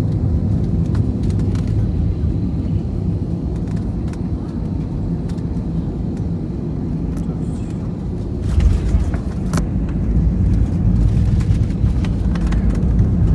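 Airliner cabin noise on approach: a steady low engine and airflow rumble. About eight and a half seconds in comes a sudden thump and a surge of low rumble. From about ten seconds on, the noise grows louder with more hiss.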